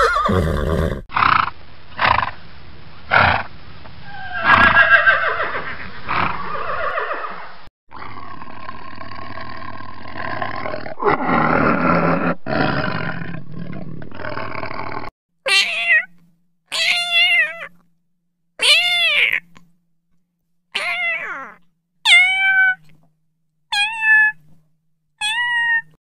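Horses neighing and whinnying, then a tiger growling, then a run of about eight short, high calls, each arching up and down in pitch.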